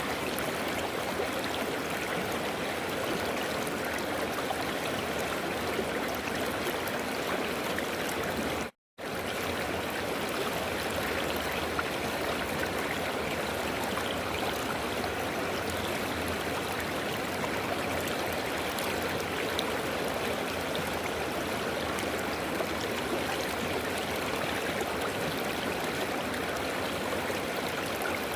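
River water flowing steadily, an even rushing sound. Just under nine seconds in it cuts out to silence for a split second, then comes back with slightly more low rumble.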